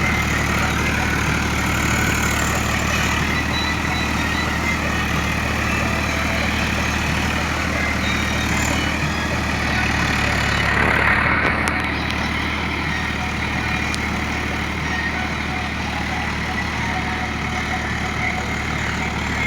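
Swaraj 744 FE tractor's three-cylinder diesel engine running steadily at a constant speed, briefly louder about eleven seconds in.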